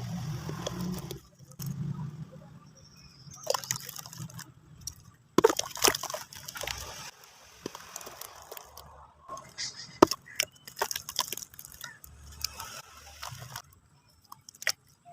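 Chunks of cement being crumbled and crushed in water: irregular crunches and sharp cracks with sloshing and dripping, two cracks about five and ten seconds in louder than the rest.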